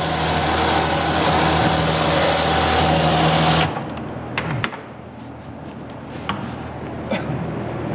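Home-built elevator's electric drive motor running with a steady hum and whine, then cutting off abruptly about three and a half seconds in. A few sharp clicks and knocks follow.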